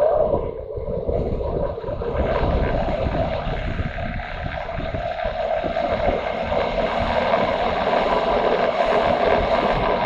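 Motorcycle running under way, its engine sound mixed with steady wind rush on the microphone.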